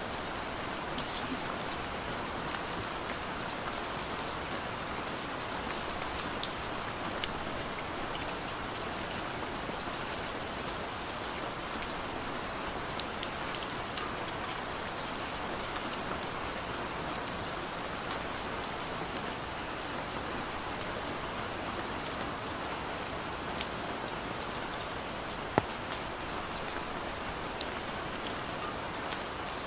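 Rain falling steadily, with scattered individual drops ticking through it and one sharper tap near the end.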